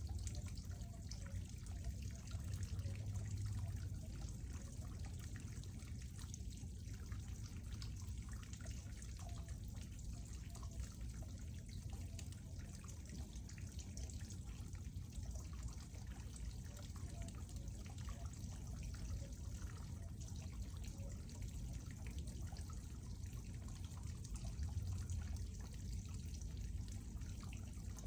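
Water trickling and dripping steadily in a small natural flow, with a low rumble underneath.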